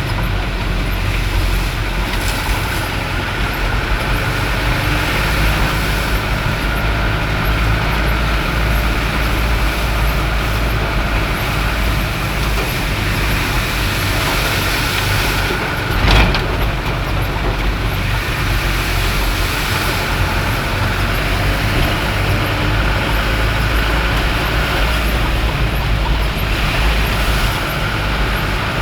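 Steady rumble of a road vehicle driving, with one sharp knock a little past halfway.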